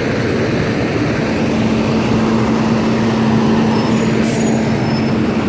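School bus engine running close by with a steady low hum, under a steady rush of wind noise. A brief high hiss comes about four seconds in.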